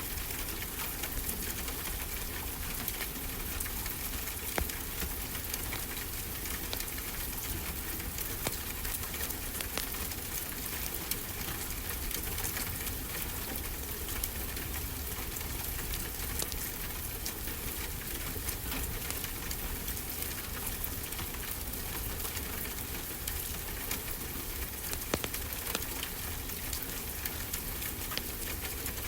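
Wood fire crackling with many small sharp pops, a few of them louder, over a steady wash of ocean surf.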